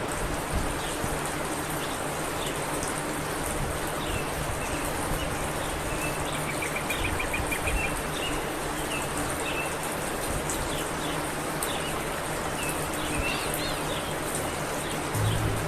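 Small birds chirping repeatedly over a steady hiss like rain or running water, with a quick run of rapid chirps about halfway through.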